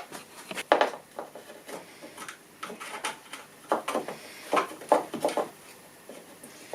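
Scattered clicks and knocks, about a dozen, from a wiper drive wheel box and its fittings being handled and tried in its mounting hole.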